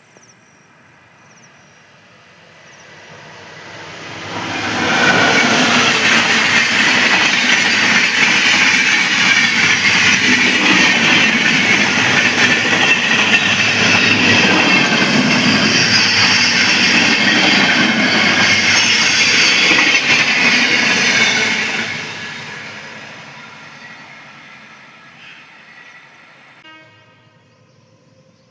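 A train passing: its noise builds up over a few seconds, stays loud for about sixteen seconds, then fades away.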